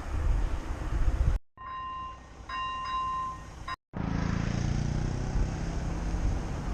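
Wind buffeting the microphone of a moving bicycle, with low rumbling. About a second and a half in the sound drops out briefly. In a quieter stretch that follows, two steady high beeping tones sound, one after the other. After a second brief dropout, the wind noise returns.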